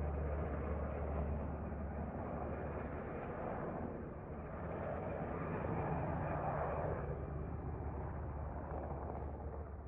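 Sikorsky MH-60 twin-turbine helicopter flying nearby, a steady low hum under a broad drone. The sound swells about five to seven seconds in, then fades near the end.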